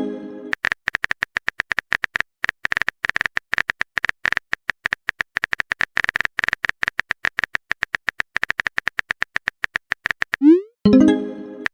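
Phone keyboard typing sound effect: a fast, uneven run of sharp clicks. Near the end comes a short rising tone followed by a brief pitched sound, the message alert of a chat.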